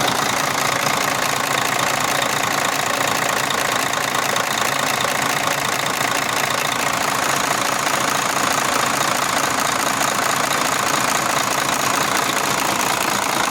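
Mercedes-Benz Actros truck diesel engine running steadily at idle.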